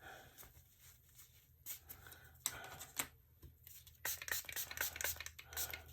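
Faint scattered clicks and light scraping of a hand tool working liquid resin down into a mold, busiest about four seconds in, over a steady low hum.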